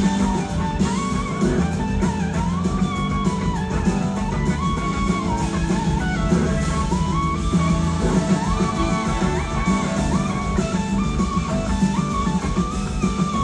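Live rock band playing, led by an electric slide guitar whose melody glides up and down between held notes, over drums and bass.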